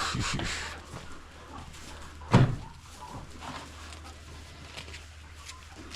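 A rustle at the start, then a single loud thump about two and a half seconds in, over a steady low hum.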